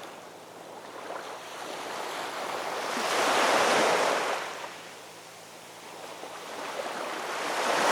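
Ocean waves breaking on the shore: one wave swells and crashes about three to four seconds in, washes out, and the next begins building near the end.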